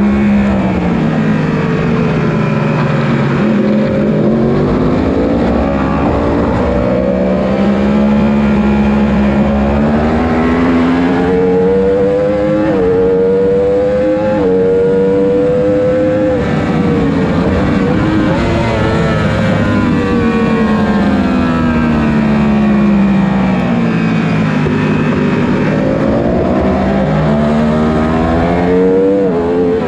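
Superbike racing motorcycle engines at high revs on a race track. The pitch climbs in short steps through the gears and drops away again several times, as the bikes accelerate down the straights and brake for corners.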